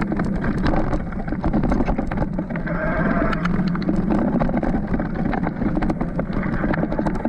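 Electric mountain bike being ridden over a rough sheep track: steady tyre and riding noise with wind on the microphone, and frequent sharp rattles and clicks from the bike jolting over the ground.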